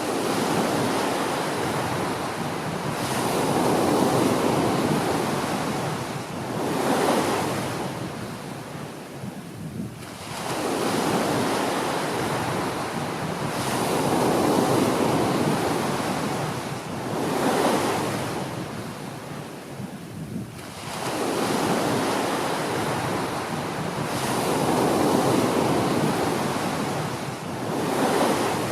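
Small ocean waves breaking and washing up a beach, a swell of surf about every ten seconds, each with a second smaller surge a few seconds after the first, then easing off between waves.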